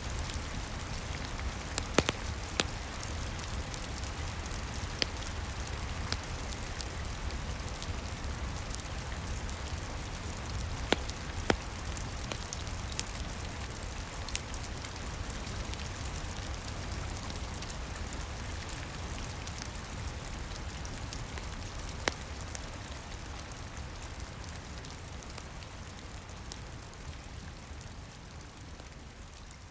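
Steady rain heard from indoors, with a few sharp pops of a crackling wood fire scattered through it. The whole mix slowly fades down over the last several seconds.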